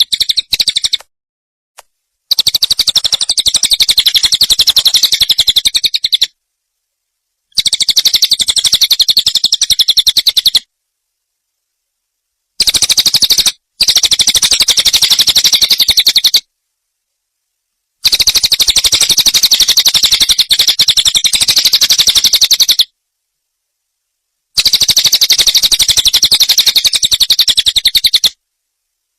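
A small songbird's high, very fast trill of rapidly repeated notes, coming in about six bursts of a few seconds each with dead-silent gaps between them, as in an edited loop. It is a 'masteran' tutor recording, played to teach caged songbirds new phrases.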